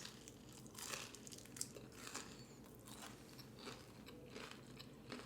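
Close-up chewing of a crunchy battered onion ring: faint, irregular crisp crunches from a person's mouth.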